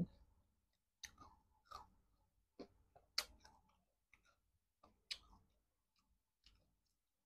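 Faint close-up mouth sounds of someone chewing a mouthful of fried chicken with lips closed: scattered soft wet clicks and smacks, the loudest about three and five seconds in.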